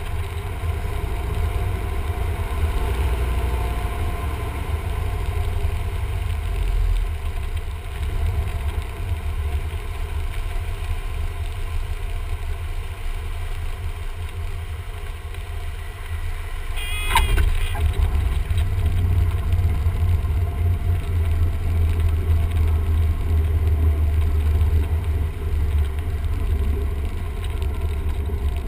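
Cessna 172M's four-cylinder Lycoming engine and propeller running steadily, heard from inside the cabin as a constant low drone. A brief high chirp cuts in about two-thirds of the way through, and the drone is a little louder after it.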